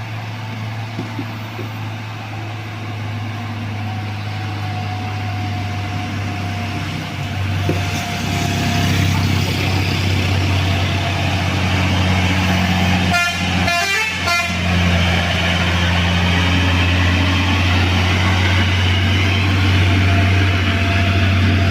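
Heavy diesel truck engine labouring up a steep hill, its drone steady and growing louder. A short horn blast sounds about halfway through.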